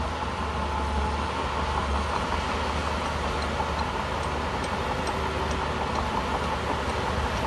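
Shantui crawler bulldozer's diesel engine running steadily at work: a low drone with a faint steady higher tone over it and a few light clicks.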